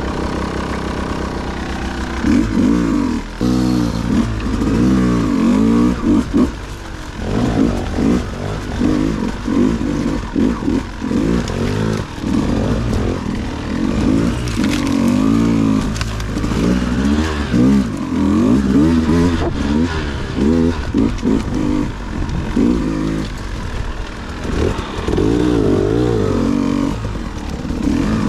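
Dirt bike engine running, revved up and down over and over in short bursts of throttle from about two seconds in.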